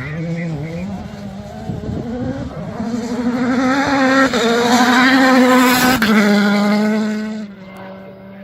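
Rally car engine accelerating hard as the car approaches and passes, its pitch climbing through the gears with a brief upshift about four seconds in and another near six seconds, loudest as it goes by, then fading away.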